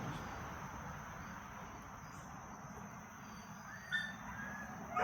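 Quiet background with a steady faint high-pitched insect drone, like crickets. A couple of brief high-pitched squeaks sound about four seconds in.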